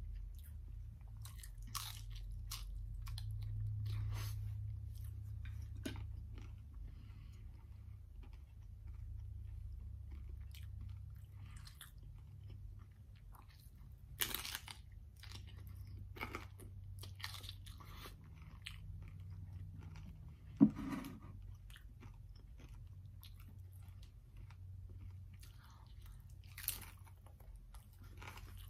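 Crunching bites and chewing of a crisp fried tostada shell topped with shredded chicken, in scattered crackly crunches. One sharp knock about two-thirds of the way through, and a low steady hum underneath.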